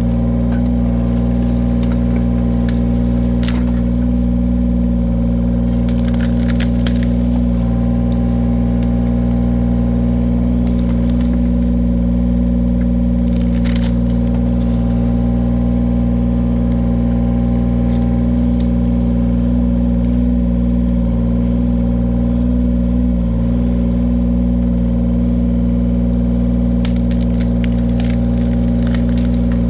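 The engine of a firewood-splitting machine runs at a steady speed throughout, with a few short sharp cracks of wood giving way.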